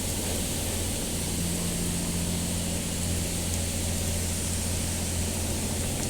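Car wash machinery running: a steady rushing noise, either water spray or air, over a constant low motor hum.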